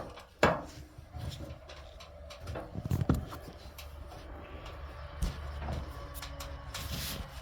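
Knocks, thumps and scraping as a person climbs up into a ceiling space and moves about, with sharp knocks about half a second and about three seconds in, over a steady low hum.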